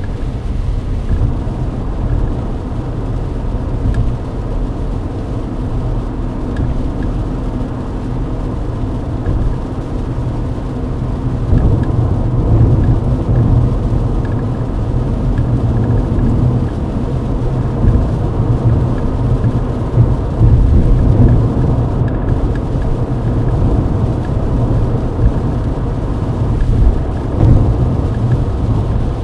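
Steady low rumble of road and engine noise inside a Mercedes-Benz W124 cruising on a rain-wet highway, with the hiss of the tyres on wet asphalt; it grows a little louder about halfway through.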